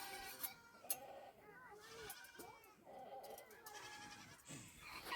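Goats bleating, several short, wavering calls one after another, faint.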